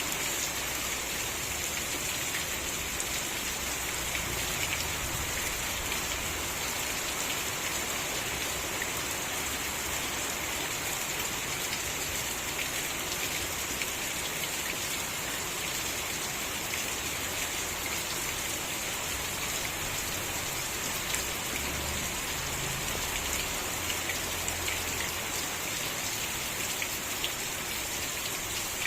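Steady rain falling, with a dense hiss of drops pattering on surfaces and many small individual drop ticks.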